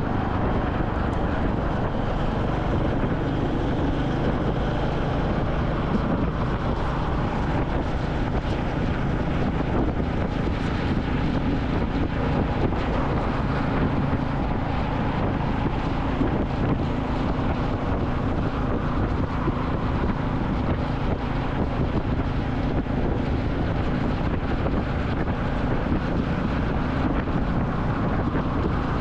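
Royal Enfield Classic 350's single-cylinder engine running steadily under way, with wind rushing over the microphone.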